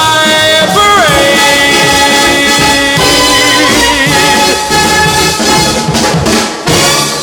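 Big-band orchestra with brass playing the song's closing bars, a long sustained final chord. A last accent hits near the end and starts to ring away.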